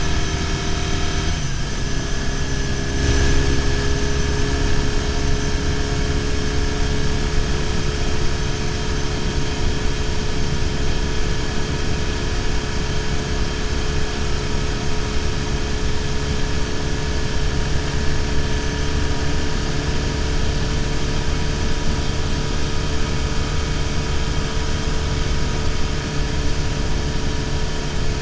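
BMW R1150GS's boxer-twin engine running at a steady cruise, recorded by a camera on the bike, with road and wind noise. Its note shifts about a second and a half in, then holds steady.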